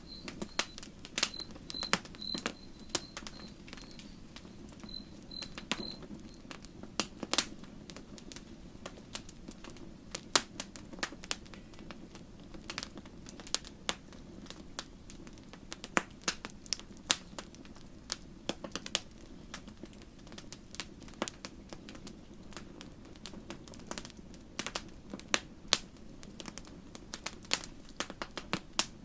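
Wood campfire crackling, with irregular sharp pops and snaps over a steady low rush of the flames. A cricket chirps at a high pitch through the first six seconds or so.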